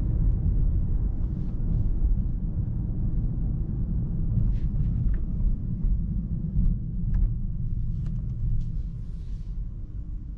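Steady low rumble inside the cabin of a 2024 Mercedes-AMG S63 sedan on the move, with a few faint clicks, fading over the last couple of seconds.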